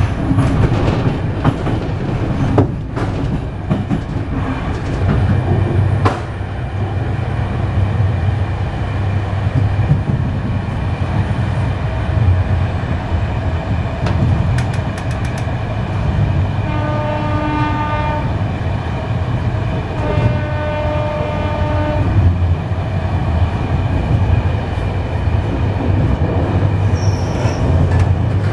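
Passenger train running on the rails, heard from inside the carriage: a steady low rumble with wheel clatter and the odd click over the rail joints. About two-thirds of the way through the train's horn sounds twice, the second blast a little longer.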